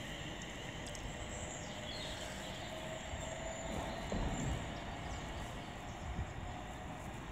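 Distant train running: a low, steady rumble with a faint steady whine coming in about three seconds in.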